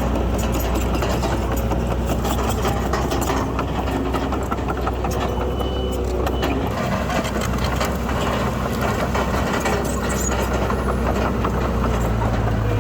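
Diesel engine of heavy earthmoving machinery running steadily, with constant rattling and clanking over the low engine hum. A stronger, deeper engine note comes in near the end.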